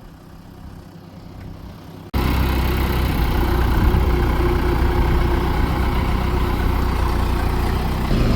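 A vehicle engine running steadily, faint for about two seconds and then suddenly much louder: a steady deep rumble with a constant hum.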